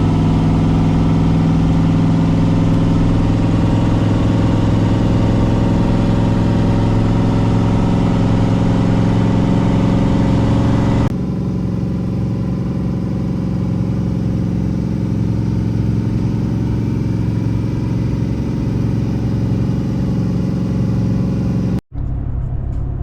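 Car engine running steadily at cruising speed, with road noise from a moving vehicle. The sound changes abruptly about halfway through to a quieter, duller drone, and drops out for an instant near the end.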